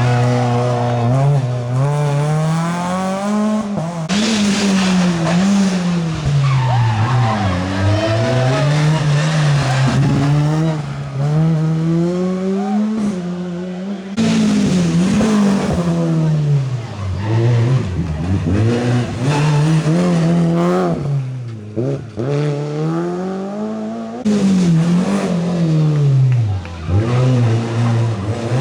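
Rally car engines revving hard, the pitch climbing and dropping again and again as they change gear and lift off for corners, with tyre squeal. The sound changes abruptly about 4, 14 and 24 seconds in, as one run gives way to the next.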